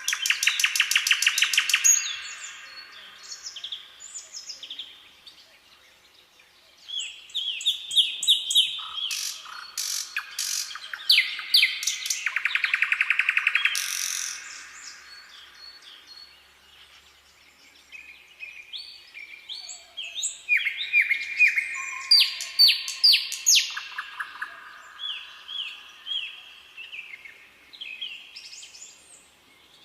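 Songbirds singing in bursts of fast trills and short repeated phrases, with quieter lulls between the bursts.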